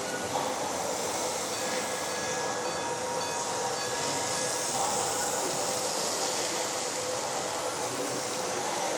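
H0-scale model train running on the layout: a steady rolling noise, with a few faint thin tones between about two and five seconds in.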